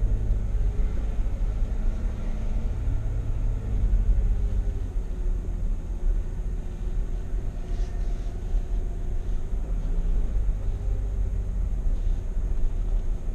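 Steady low rumble of a vehicle driving on a dry dirt road, engine and tyre noise heard from inside the cab.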